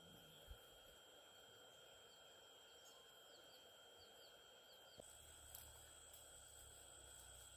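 Near silence: faint outdoor ambience with a steady high insect-like drone, a run of faint short chirps in the middle, and a low rumble coming in about five seconds in.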